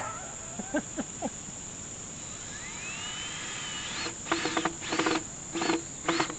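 Power drill spinning up in a rising whine, then run in short trigger pulses about twice a second, each burst rising and falling in pitch, as screws are driven into the mill's rails. Crickets and insects call steadily throughout.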